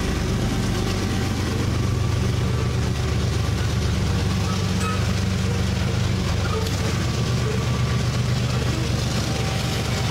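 Loaded coal hopper cars of a freight train rolling past: a steady rumble of steel wheels on rail, with a low engine drone underneath.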